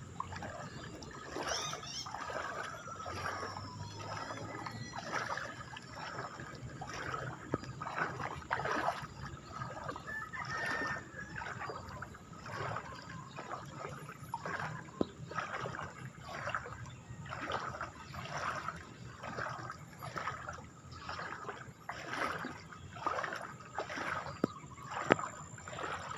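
Water sloshing and splashing in a regular rhythm of about one splash a second, as of someone wading through deep water.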